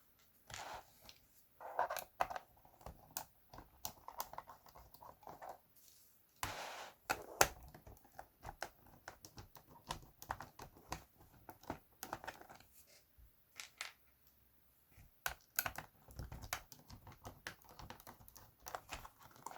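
Plastic computer keyboard being handled and worked on for disassembly: irregular clicks, taps and knocks of its plastic case and keys, with a few short rustling scrapes.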